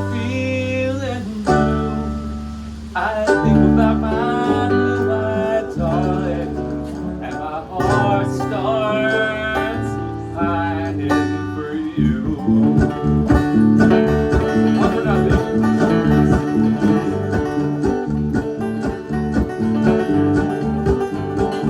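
Bluegrass band playing an instrumental intro: a slow melody with sliding notes over long held bass notes, then about twelve seconds in the band breaks into a fast, driving plucked rhythm with banjo and guitar.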